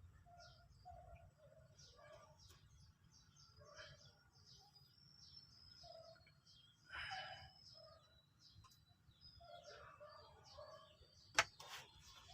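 Faint birds chirping in the background, with one sharp click a little past the middle-to-end.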